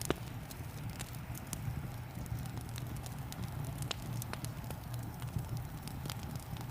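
Wood fire crackling in a fireplace: irregular sharp pops and snaps over a steady low rumble, with a soft hiss of rain behind it.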